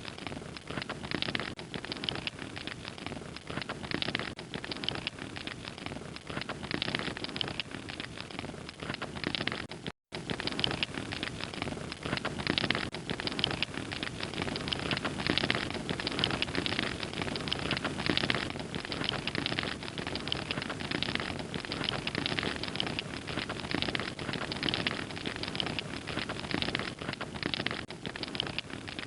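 Fire crackling steadily: a dense run of small sharp crackles over a soft hiss, cutting out for an instant about ten seconds in.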